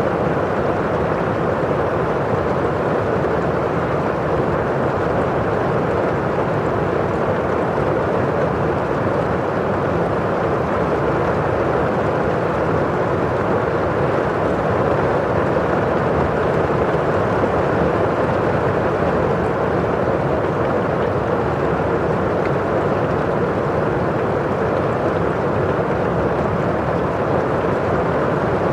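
Steady rain, a constant even hiss on a windowpane and outside, with no single drops standing out.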